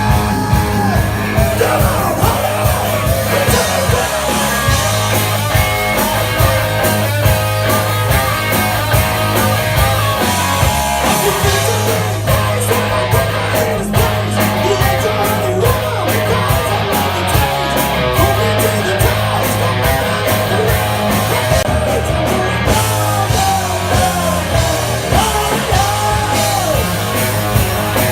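Live rock band playing loud, with a singer's voice over bass and drums; a steady run of sharp drum or cymbal strokes comes in for about ten seconds in the middle.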